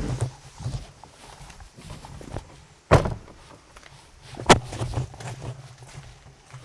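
Bicycle rattling and jolting over a rough forest path, with a low rumble underneath and two hard knocks, about three and four and a half seconds in.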